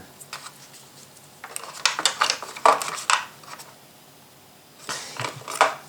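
Hard plastic clicks, taps and scraping as an RC dump truck's battery compartment and its locking catch are handled, in irregular bursts about a second and a half in and again near the end.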